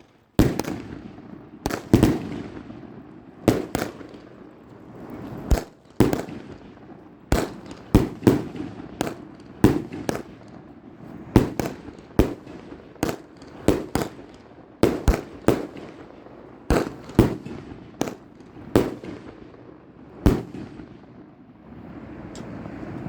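A 200-gram Bowser firework cake firing shot after shot: sharp bangs about every half second to a second, some in quick pairs, with crackle trailing between them, for about twenty seconds before the shots stop.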